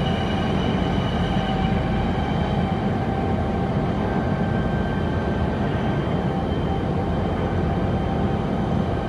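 Holemaster 4000 X Line CNC drilling/boring machine running: a steady mechanical rumble with faint high, even whines over it.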